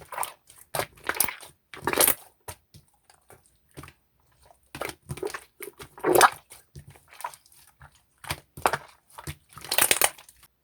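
Slime being squeezed and pressed by hand, giving irregular crackling, popping squishes, some louder than others, with short pauses between handfuls.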